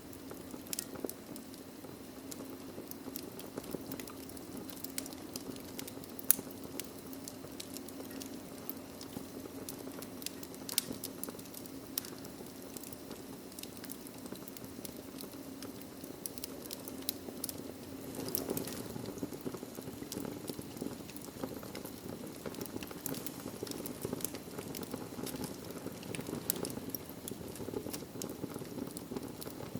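Wood fire burning in a fireplace, crackling with frequent sharp pops and snaps over a steady low rush of flame; one louder snap about six seconds in, and the fire grows a little louder about eighteen seconds in.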